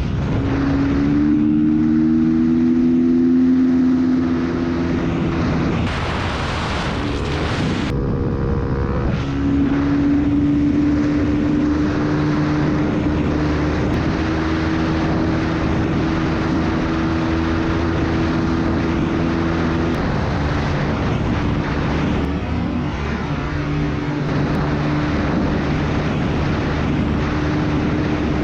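Four-stroke dirt bike engine running at road speed, its pitch stepping up and down a few times. A brief rush of wind noise comes about six seconds in.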